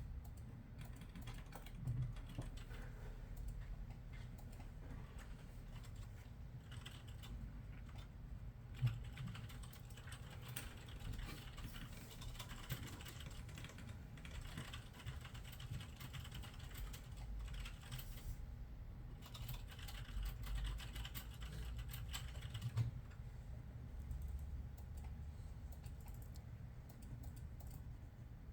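Typing on a computer keyboard: irregular key clicks with a few louder strikes, over a steady low hum.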